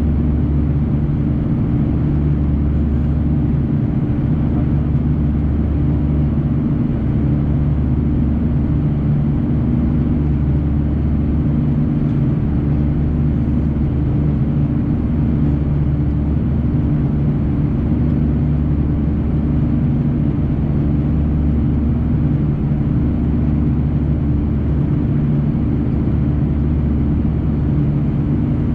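Steady cabin drone inside an Airbus A340-300 climbing after takeoff: its four CFM56-5C engines and the airflow make a low hum with several steady tones that does not change.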